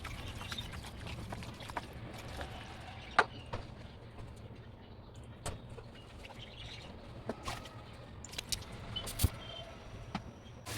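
Scattered light clicks and knocks, the sharpest about three seconds in, over a steady low hum.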